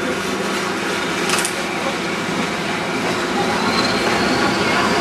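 Diesel-hauled passenger train running along the track, heard from an open carriage window: steady rumble of wheels on rail with a level drone underneath. A short click comes about a second in, and from about three and a half seconds a faint high squeal slowly rises in pitch.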